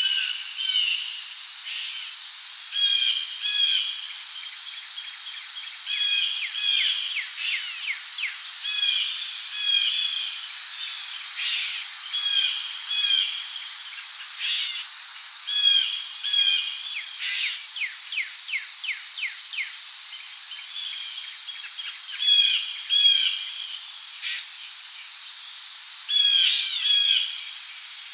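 Rainforest ambience: crickets keep up a steady, high-pitched drone while birds call over it again and again in short chirps, often in pairs. About two-thirds of the way through comes a quick run of falling notes.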